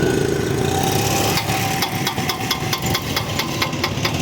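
Rapid, evenly spaced knocking, about five or six strokes a second, starting about a second and a half in, over a steady motor hum.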